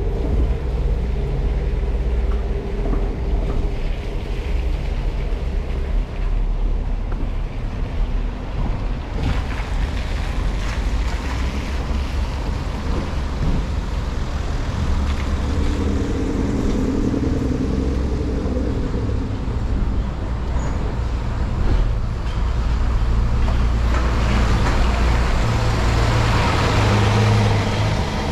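Street traffic: motor vehicle engines running close by, with a louder vehicle passing near the end.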